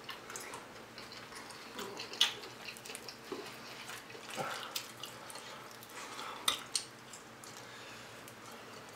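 Fried chicken wings being chewed close to the microphone: scattered crisp crunches and wet mouth clicks, a few louder ones about two, four and a half, and six and a half seconds in.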